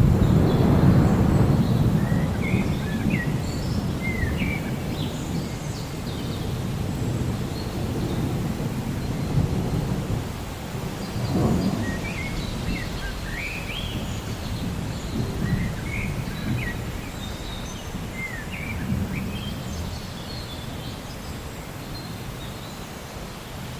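Steady rain with rolling low thunder, the loudest rumble right at the start and weaker swells later. Birds chirp throughout in short rising and falling calls.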